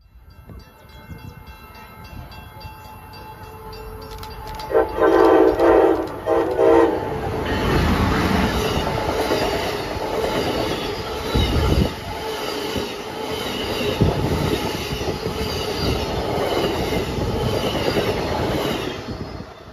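Amtrak passenger train approaching, sounding its horn in a quick series of short blasts, a hornshow, then rushing past the platform at speed with steady wheel clatter and car noise. The sound cuts off abruptly near the end.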